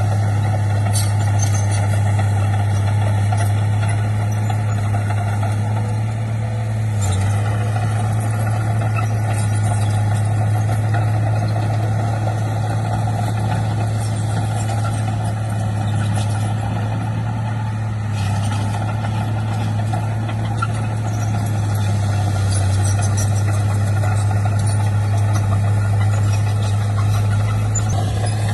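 Diesel engine of heavy earthmoving machinery running steadily, a constant low drone at an unchanging speed.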